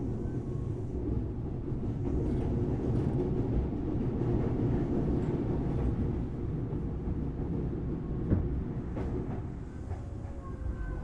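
Interior running sound of a Tobu Railway Series 6050 electric train's motor car, with resistor-controlled traction: a steady rumble of wheels on rail. A single sharp click comes about eight seconds in, and the sound eases a little near the end.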